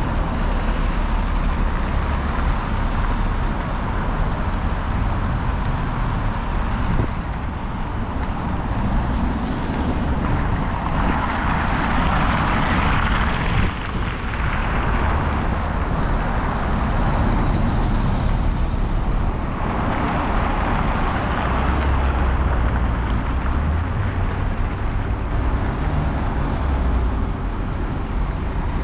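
City street traffic: a steady rumble of road noise, with a vehicle passing close by about a third of the way in and another about two-thirds of the way in.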